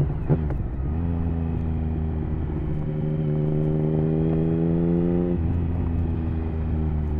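Triumph Speed Triple 1050's three-cylinder engine through an HP Corse Hydroform exhaust on the move: a quick rev blip just after the start, then the engine pulls with its pitch rising slowly for about four seconds before dropping off suddenly to a lower, steady note.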